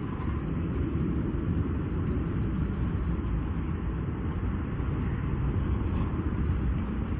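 Wind buffeting a phone microphone outdoors: a steady, rough low rumble with no distinct events.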